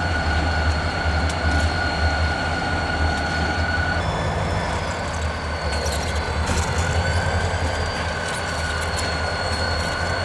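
Diesel locomotives rumbling as they move slowly, with a steady high-pitched wheel squeal that shifts in pitch about four seconds in. Scattered sharp clicks from the wheels on the rails come in the second half.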